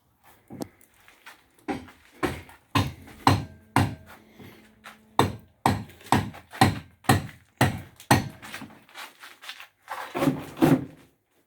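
A series of sharp knocks of hard objects, about two a second for several seconds, then a quicker cluster of knocks near the end, with a faint ringing tone hanging under some of them.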